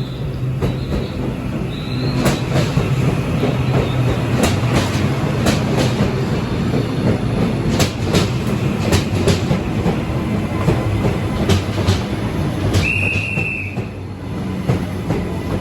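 Train wheels running on the rails with a steady low rumble and hum, broken by many sharp clicks as the wheels cross rail joints and points. Short high wheel squeals come in the first two seconds, and a longer one of about a second comes near the end.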